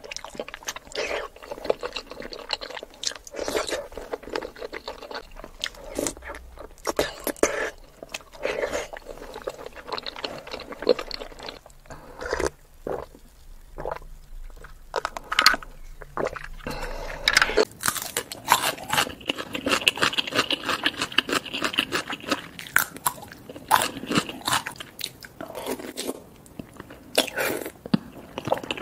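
Close-miked eating sounds: a person chewing and biting into soft-boiled eggs coated in thick spicy sauce, with wet, sticky mouth sounds and many short smacks.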